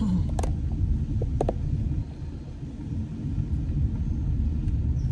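Steady low rumble of a car's engine and tyres heard from inside the cabin while driving, with a couple of light clicks about half a second and a second and a half in.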